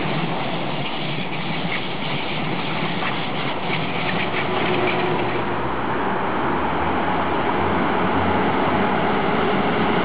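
ICE high-speed train cars rolling past with steady wheel-on-rail noise and some crackling. About halfway through, this gives way to another ICE train approaching, its rumble growing slightly louder toward the end.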